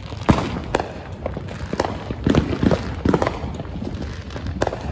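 Fireworks going off in a series of sharp bangs and pops. The loudest comes about a third of a second in, and a denser run of crackling reports follows about two to three seconds in.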